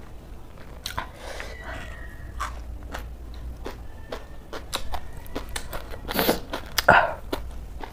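Crunchy chewing of a shredded raw cabbage salad, with many wet mouth clicks and lip smacks, and two louder bursts about six and seven seconds in.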